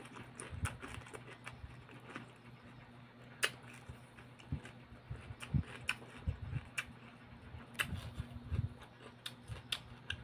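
Close-up chewing and crunching of raw cucumber: irregular crisp clicks and soft wet mouth sounds, over a faint steady low hum.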